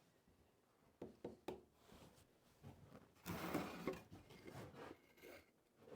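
Faint handling noise: a few light knocks about a second in, then a short scraping rustle a little after three seconds in, the loudest sound, and a few softer knocks after it. No motor is running.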